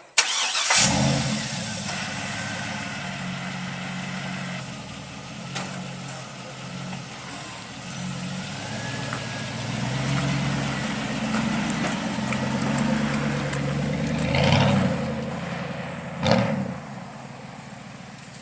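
Truck engine starting under a second in, then running and pulling away, swelling twice in loud surges late on before fading out near the end.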